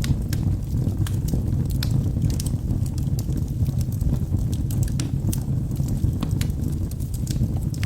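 Wood fire burning in a fireplace: a steady low rumble of the flames with frequent sharp crackles and pops from the burning logs, at irregular intervals.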